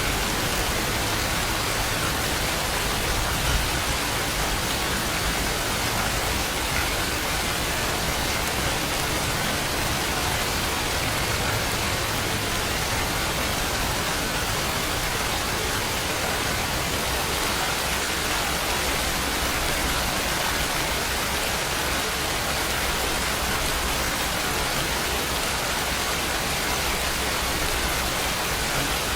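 Steady rain falling on a surface, an even hiss with no thunder.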